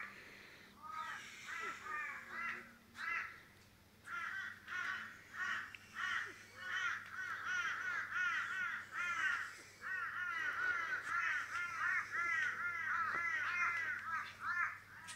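Birds calling: a rapid run of short arched calls, a few a second, sparse at first, then close-packed and nearly continuous from about four seconds in.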